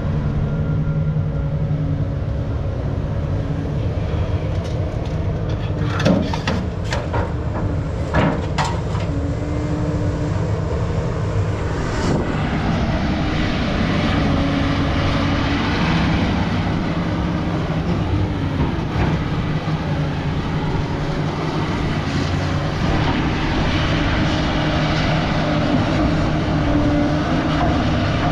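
Heavy diesel scrap-yard machine running steadily, its engine note shifting as it works. Several sharp metal clanks come about six to nine seconds in, and another near twelve seconds.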